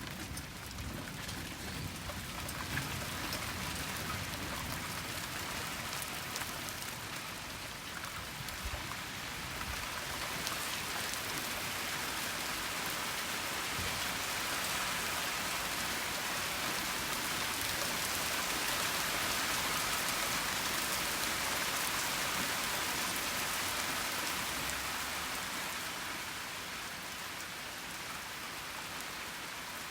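Heavy rain falling steadily, growing heavier toward the middle and easing off a little near the end.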